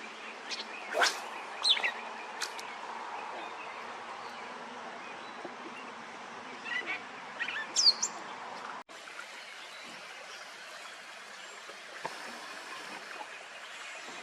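Small birds chirping in short calls and quick falling whistles over a steady outdoor background hiss, with a brief drop-out about nine seconds in.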